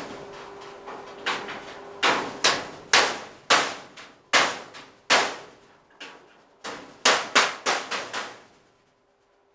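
Hammer striking a piece of wood held against sheet metal to straighten it: about fifteen sharp blows at an uneven pace, coming quicker near the end before they stop.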